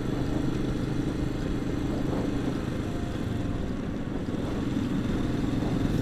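Royal Enfield Himalayan's single-cylinder engine running steadily at an even cruising speed, with a steady rush of wind and road noise.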